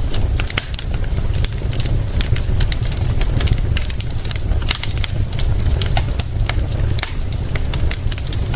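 Wood fire crackling with many irregular sharp pops and snaps, over a steady low rumble and an even hiss of rain.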